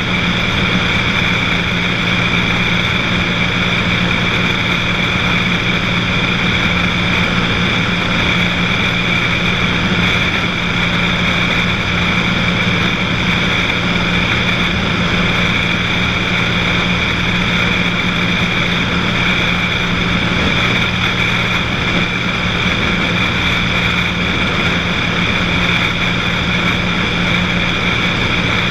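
Cessna 182's single piston engine and propeller running steadily in flight, an even, unchanging drone with a constant pitch.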